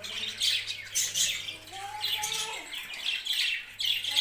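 A flock of budgerigars chattering, many quick high chirps and squawks overlapping with a few lower warbling calls.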